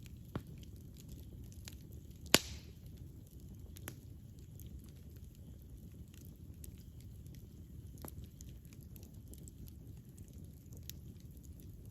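Wood fire burning with a low steady rumble and scattered sharp crackles and pops; the loudest pop comes a little over two seconds in.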